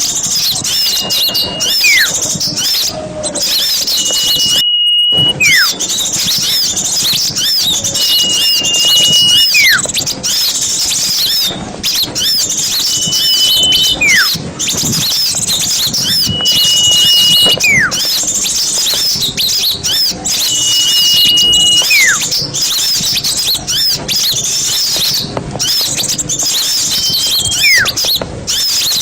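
Bird-lure recording of many small birds calling together in a dense, noisy chatter of high chirps. Over it a whistle recurs about every four seconds, holding one note and then dropping in pitch. The sound cuts out briefly about five seconds in.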